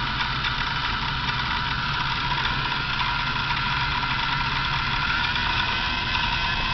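Motor and rotor of a 1/18-scale RC MH-6 Little Bird helicopter running steadily in a ground run-up, an even whine.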